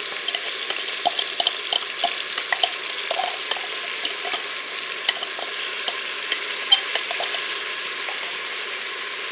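Diced onion and garlic sizzling in melted butter in a multi-cooker's ceramic inner pot on sauté: a steady hiss with frequent small pops and crackles that thin out after about seven seconds.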